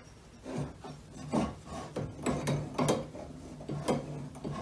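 Irregular scraping knocks and rubbing from a home-built compressed-air eccentric drive motor being worked while its timing is set, over a steady low hum.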